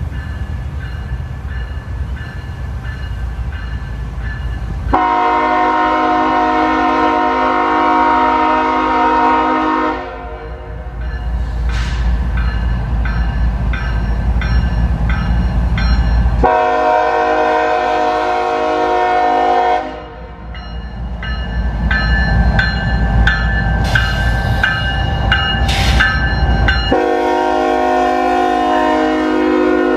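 CSX freight locomotive's horn sounding three long blasts, each a chord of several tones, over the low rumble of the passing train. Between the blasts the wheels click steadily over the rail joints.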